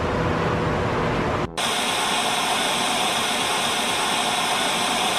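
A loud, even hiss of noise that breaks off briefly about a second and a half in, then resumes with a brighter, more even character and stops abruptly.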